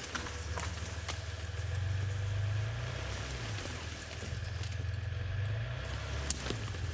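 Vehicle engine running steadily with a low rumble that swells and eases slightly, with a few light clicks and knocks over it.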